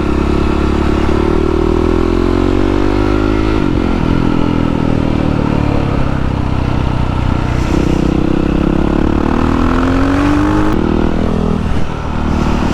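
Yamaha WR450F single-cylinder four-stroke dirt bike engine accelerating hard under way, its pitch climbing and then dropping back at each of about three gear changes.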